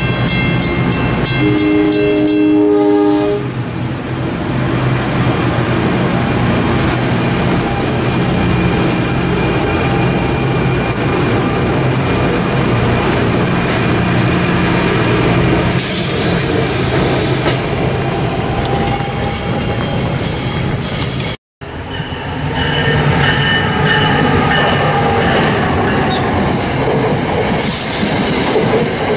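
A grade-crossing bell ringing, with a train horn sounding a short chord about 1.5 s in. Then a New Jersey Transit commuter train rumbles close past, its wheels clattering over the rail joints. After a brief break, a second passing train rolls by with a thin high-pitched whine over the rolling noise.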